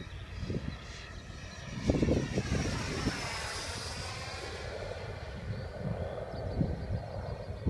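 Electric ducted fan of a Freewing F-86 Sabre 80 mm RC jet whining as it flies past, its pitch falling as it goes by. Gusts of strong wind buffet the microphone.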